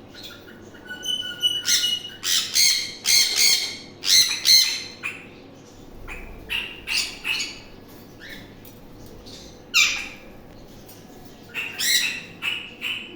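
Birds calling in short, repeated calls: a run of loud calls a couple of seconds in, scattered calls through the middle, and another run near the end.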